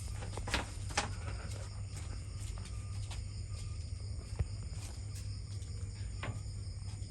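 Steady high-pitched insect chorus, like crickets, over a low hum, with a few short taps scattered through it.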